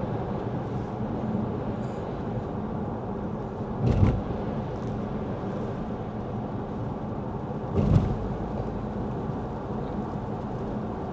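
Steady tyre and road noise on wet pavement inside the cabin of a Lexus ES 350 F Sport sedan. A brief, louder windshield-wiper swish comes about every four seconds, around 4 s and 8 s in.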